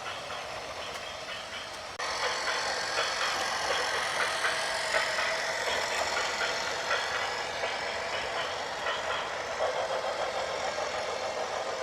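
Heavy construction vehicle engine running, with scattered clanks and knocks. It gets suddenly louder about two seconds in.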